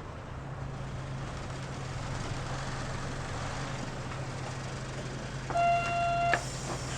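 Mitsubishi Fuso KL-MP37JK city bus engine idling with a steady low hum, heard from inside the bus. Near the end, a single electronic beep sounds for just under a second.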